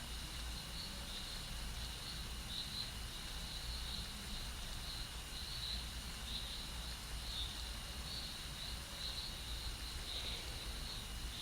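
Faint crickets chirping steadily in quick repeated pulses over a low steady rumble.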